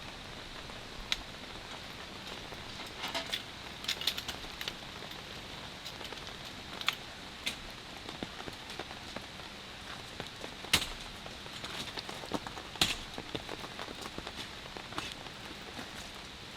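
Steady light rain hiss with scattered sharp taps of drops hitting a surface; a few taps stand out louder.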